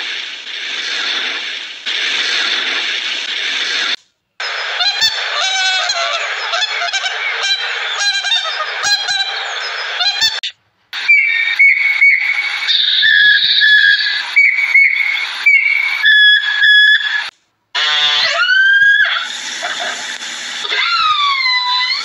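A string of short animal-call clips cut together. A noisy stretch comes first, then calls that glide up and down in pitch, broken by abrupt cuts to silence about four, ten and a half and seventeen and a half seconds in.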